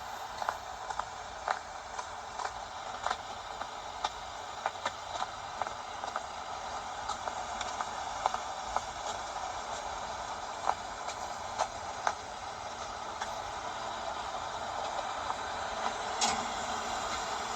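Steady rain falling, an even hiss with scattered sharp ticks about once a second and one louder click near the end.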